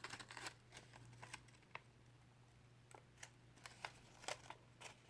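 Faint, scattered taps and light rustles of paper pieces being handled, over a steady low hum.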